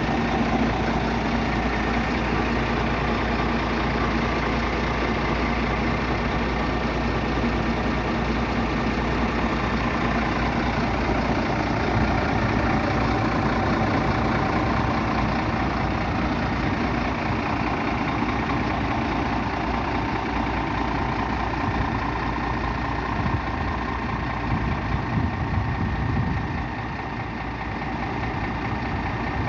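Scania G450 truck's 13-litre six-cylinder diesel idling steadily, dipping slightly in loudness near the end.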